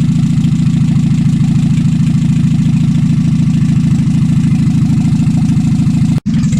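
Freshly rebuilt Morris Minor 948cc four-cylinder engine running steadily, with a sudden momentary break in the sound about six seconds in.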